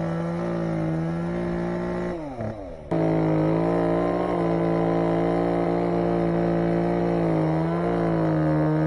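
Chainsaw engine running steadily at high revs. About two seconds in its pitch drops sharply, then it cuts straight back to full speed.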